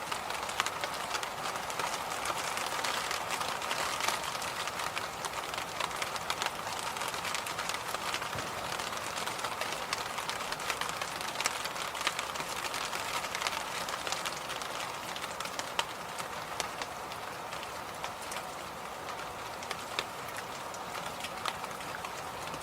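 Electric fan running, a steady airy whoosh with many light, irregular ticks scattered through it.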